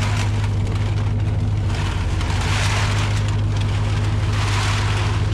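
Steady low hum of an idling vehicle engine, with two swells of rattling as loose aluminum soda cans are poured out of bags, about two and four seconds in.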